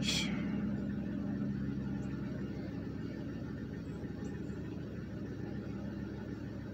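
Ford 4.6-litre V8 of a 2007 Crown Victoria Police Interceptor idling steadily, heard from inside the cabin as a low hum. The engine carries a cylinder 3 misfire, stored as code P0303.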